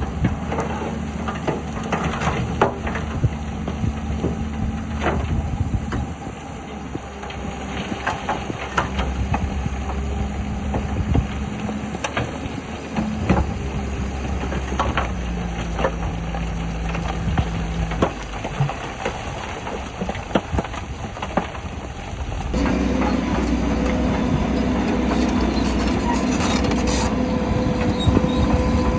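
Shantui bulldozer working: its diesel engine runs steadily under load while its steel tracks clank and knock. About two-thirds of the way through, the engine gets louder and a higher note joins in.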